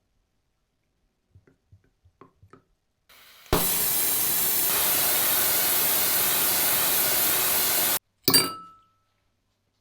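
A few faint clicks, then a loud, steady hiss from a workshop tool lasting about four and a half seconds that cuts off suddenly, followed by a short metallic clink that rings out briefly.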